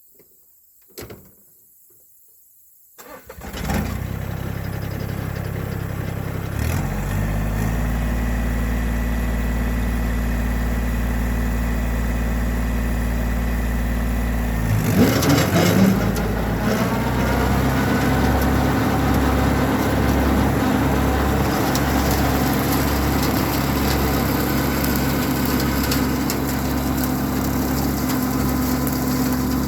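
Massey Ferguson 1725 compact tractor's diesel engine starting about three seconds in, catching at once and running steadily. Its note steps up a few seconds later, and about halfway through it grows louder and changes to a heavier, throbbing running sound.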